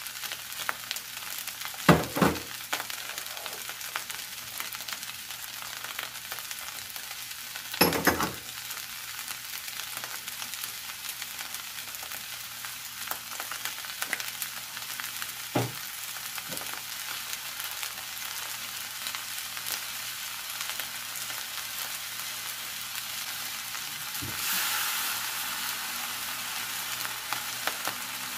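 Shrimp and egg fried rice sizzling steadily in a wok, with four sharp knocks spread through. The sizzle grows louder shortly before the end.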